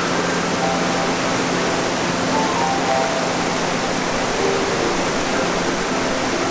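Steady rushing outdoor noise of wind and river water, even and unbroken. Faint soft held musical notes sound over it here and there.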